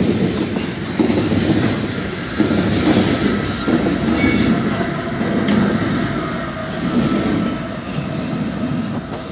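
CSX freight train tank cars rolling past at a grade crossing: a steady rumble of steel wheels on rail with a rhythmic clatter over the rail joints, swelling about once a second. About four seconds in there is a brief high-pitched squeal.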